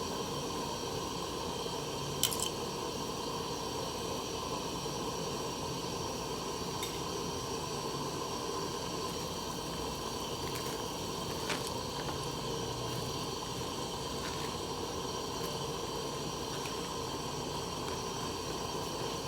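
Person eating soup close to the microphone: soft wet mouth and spoon sounds over a steady hiss, with a few sharp clicks, the loudest about two seconds in.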